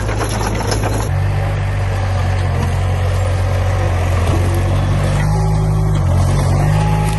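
Heavy diesel engine of earth-moving machinery running steadily. About a second in, the sound changes abruptly from a clattering, rapidly ticking run to a smoother low drone, and the engine note rises slightly near the end.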